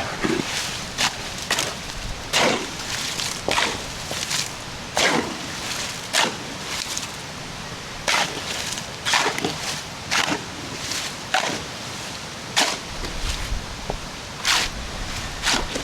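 Shovels working a batch of concrete mix by hand, a series of short scraping strokes about once a second, unevenly spaced.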